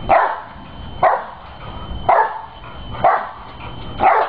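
A dog barking five times, about once a second, in an even rhythm.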